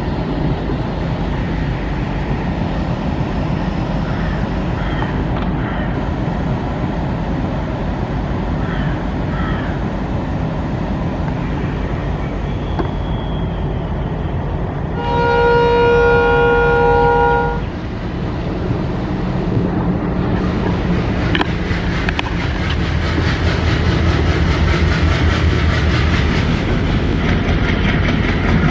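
Diesel-hauled passenger train running, heard on board: a steady rumble of the coaches on the rails. About halfway through, the WDG3A diesel locomotive's multi-tone horn sounds one long chord for about two and a half seconds. Near the end the running grows louder, with rail clicks and a low drone.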